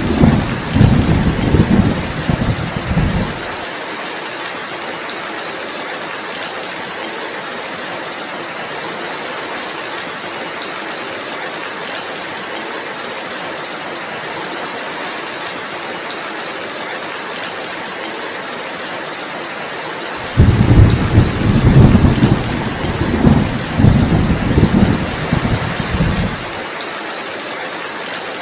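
Heavy rain falling steadily, with low rumbles of thunder: one dies away about three seconds in, and another starts suddenly about twenty seconds in and lasts about six seconds.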